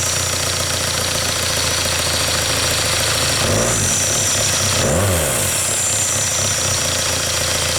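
Engine idling steadily during an oil-pressure check, with two short blips of revs, the pitch rising and falling about three and a half and five seconds in.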